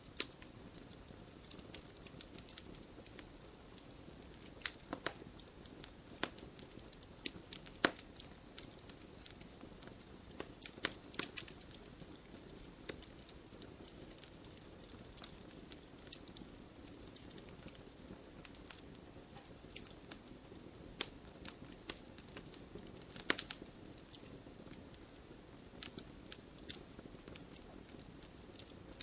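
Wood fire burning in a fireplace: a steady low hiss of flames with irregular sharp crackles and pops, a few louder pops standing out.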